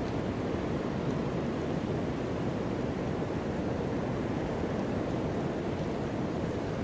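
Steady rushing roar of ocean surf, an even wash of noise with no single breaking wave standing out.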